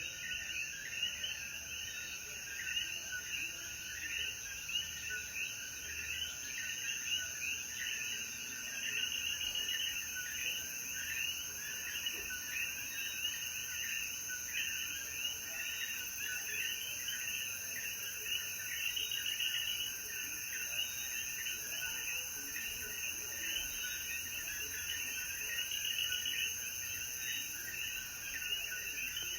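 Dense chorus of coquí frogs, many overlapping two-note "co-kee" calls repeated over and over, with a steady high-pitched insect drone behind them.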